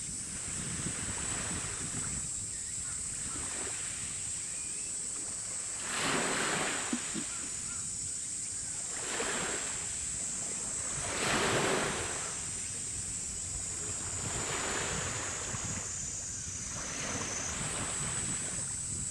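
Harbour water washing in swells every few seconds, with wind rumbling on the microphone. A thin, steady high-pitched whine runs underneath.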